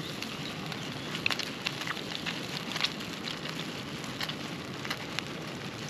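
Egg-and-matzo batter sizzling in a frying pan over a small gas-cartridge camping stove: a steady hiss with irregular sharp crackles, most of them between one and three seconds in.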